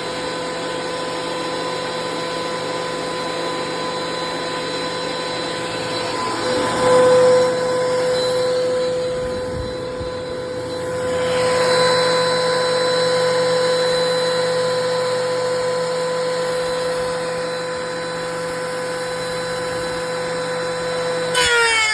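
DeWalt electric planer running with a steady high-pitched motor whine, growing louder and noisier twice as it cuts wood, about six seconds in and again about eleven seconds in. Near the end it is switched off and the whine falls in pitch as the cutterhead spins down.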